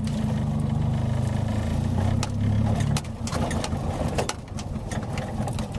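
Three-wheeler's engine running as the rider sets off. The low engine note is strong at first and drops to a weaker, uneven rumble about three seconds in, with a few sharp clicks.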